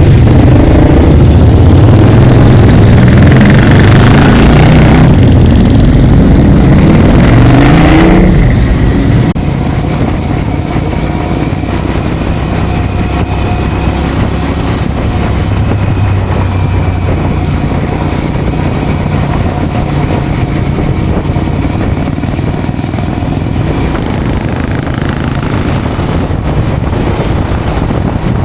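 Motorcycle engine accelerating hard up through the gears, its note climbing three times and dropping back at each change. After about eight seconds it settles into a steadier, quieter cruising note.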